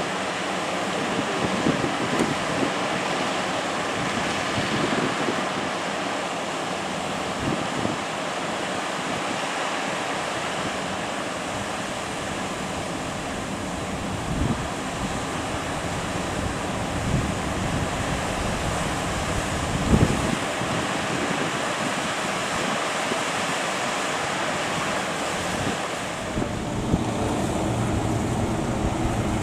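Surf breaking at a river mouth, with wind buffeting the microphone in gusty low thumps. A low engine drone comes in near the end.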